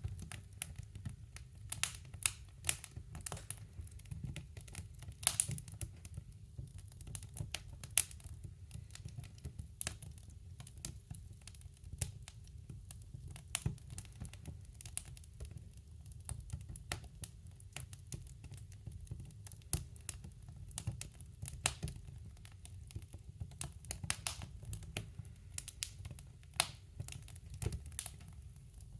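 Wood fire in a woodstove crackling, with irregular sharp pops and snaps over a steady low rumble of the burning fire.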